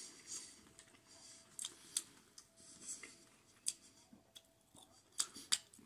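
Quiet eating sounds: a person chewing a mouthful of General Tso's chicken, with a handful of sharp clicks and smacks scattered through.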